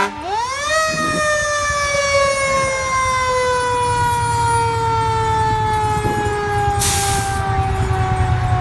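Fire engine siren winding up quickly in the first second, then slowly winding down in one long falling tone, with a diesel engine rumbling underneath from about four seconds in. A short hiss of air about seven seconds in.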